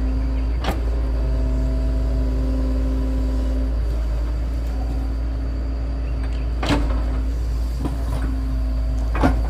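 Excavator's diesel engine running steadily with a deep rumble, with a few sharp knocks.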